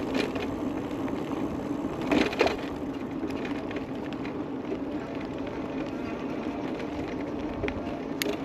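Ride noise from an e-bike rolling along a paved trail: a steady low hum with tyre and wind noise. A louder rattle comes about two seconds in, and a few sharp ticks come near the end.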